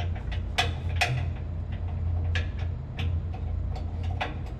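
Sharp metallic clicks and taps from hand tools on the motor and its mounting, at irregular intervals, over a steady low machinery hum.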